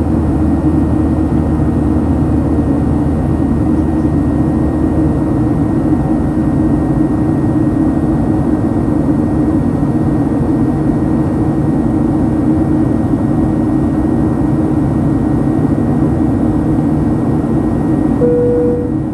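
Steady cabin noise of a Boeing 737-900 climbing, the drone of its CFM56-7B engines mixed with airflow. A low hum drops out about five seconds in, and a short single-pitched chime sounds near the end.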